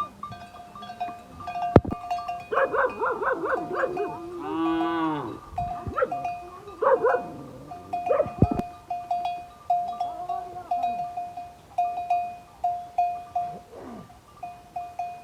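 Bells on grazing livestock clinking over and over. Animal calls come in between about two and a half and seven seconds in, among them one long call just before five seconds.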